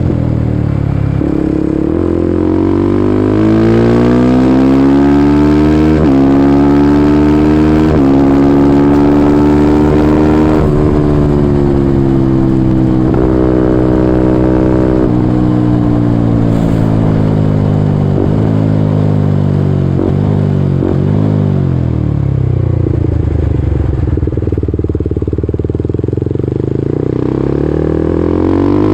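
Kawasaki Ninja 250SL's single-cylinder engine through a KEA Speed NA 1 aftermarket exhaust, under way. The revs climb and drop sharply several times in the first ten seconds as it shifts up, then fall away in steps as it shifts down, stay low for several seconds, and climb again near the end.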